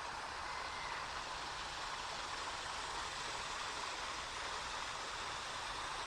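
Steady rush of flowing creek water, an even hiss that does not change.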